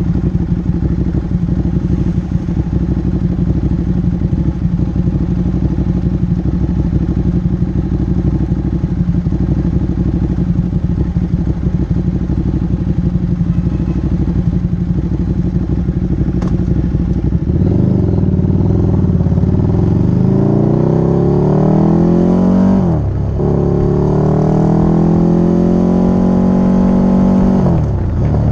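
Motorcycle engine running steadily at low revs, then accelerating about two-thirds of the way in: the revs climb, drop sharply at a gear change, climb again and drop at a second shift near the end.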